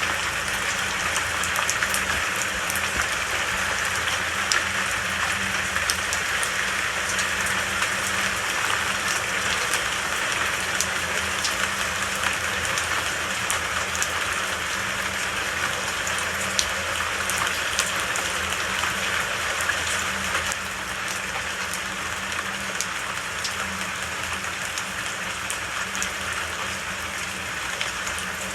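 Steady rain falling, with individual drops ticking close by. It gets slightly quieter about twenty seconds in.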